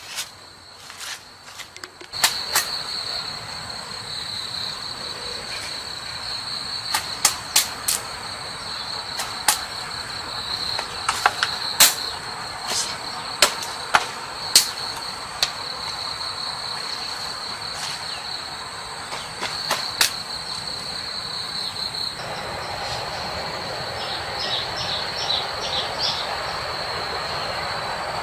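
Steady high-pitched insect buzz, starting about two seconds in, with scattered sharp clicks and knocks throughout.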